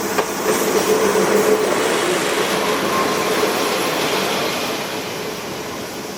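Wheel and rail noise heard inside a locomotive-hauled passenger coach running along, with a faint wheel squeal over the first couple of seconds; the noise eases a little near the end.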